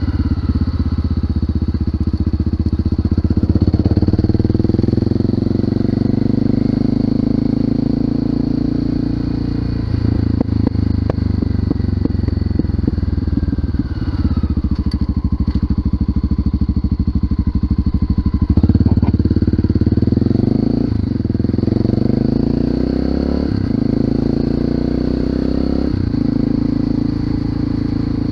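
Honda FMX 650 supermoto's single-cylinder four-stroke engine, through an Arrow aftermarket exhaust, pulling through the gears under way. The pitch climbs in each gear, breaks off at each of several upshifts, and drops once around the middle as the throttle is eased off.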